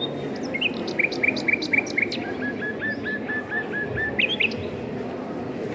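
A songbird singing one phrase: a run of quick repeated chirping notes that steps down to a lower series and ends with a few fast higher notes, over a steady low background noise.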